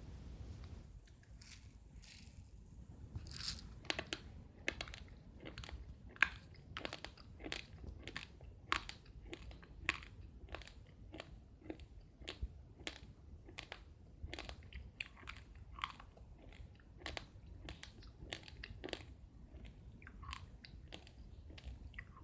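A person chewing raw, uncooked rice grains: a steady run of sharp crunches, about two a second.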